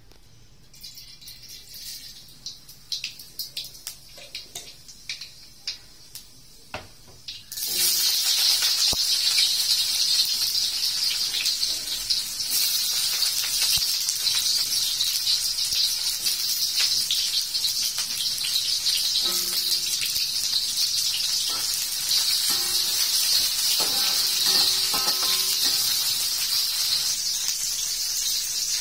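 Cooking oil heating in a wok crackles with scattered pops. About seven seconds in, sliced onions and garlic go into the hot oil, which breaks into a loud, steady sizzle as they fry.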